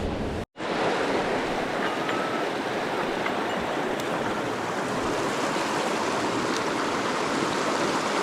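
Mountain stream water rushing steadily over rocks, with a brief dropout about half a second in.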